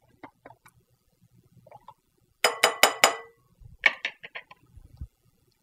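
A utensil clinking and knocking against a blender jar and bowl as blended dressing is scraped out: four quick sharp knocks about two and a half seconds in, then a few lighter taps a second later.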